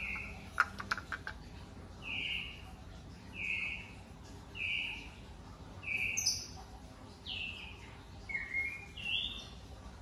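A bird calling: a short chirp repeated about once a second, then a few varied notes, one sliding down in pitch. A few sharp clicks about half a second in.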